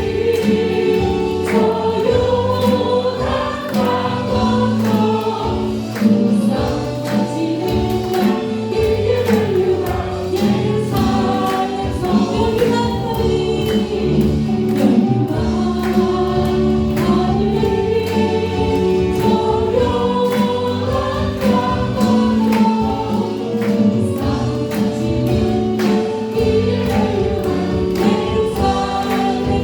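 Worship team and congregation singing a Korean praise song together, like a choir, over a band with a steady beat.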